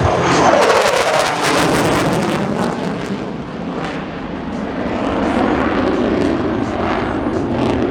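F-35A Lightning II fighter jet's single Pratt & Whitney F135 engine roaring as it pulls up into a vertical climb, a falling whine in the first second, then a steady rumble that eases and swells again.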